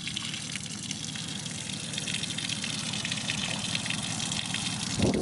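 Leaked-in water gushing steadily out of the back of a 2007 Sea-Doo Challenger 230 boat's hull and splashing down, growing louder near the end. How much drains out is the test of whether the Flex Seal patch on the cracked hull has stopped the leak.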